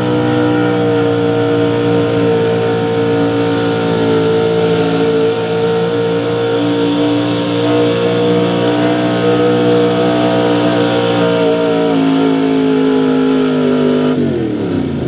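Small-block V8 pulling truck engine held at high, steady revs under load during a sled pull, dipping slightly near the end and then winding down sharply as the throttle comes off. The revs stay up without the truck gaining much: the announcer takes this for a slipping, worn-out clutch.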